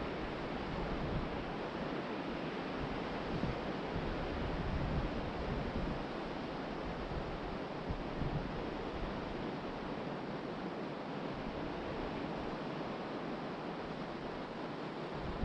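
Ocean surf washing steadily onto the beach, with gusts of wind buffeting the microphone in low rumbles.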